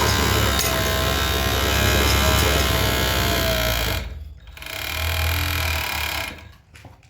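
Electric sewing machine running steadily, stopping about four seconds in, then running again for a second and a half before stopping near the end.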